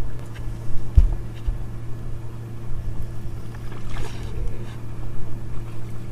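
Steady hum of a fishing boat's motor, with irregular low wind buffeting on the microphone and a single knock about a second in.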